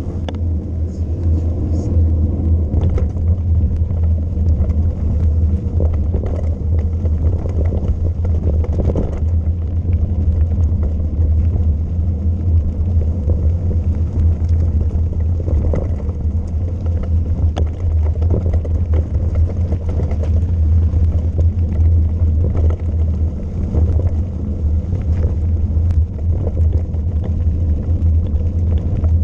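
Steady, loud low rumble of wind buffeting a helmet or bike-mounted camera's microphone during a fast mountain-bike descent, with faint scattered ticks over it.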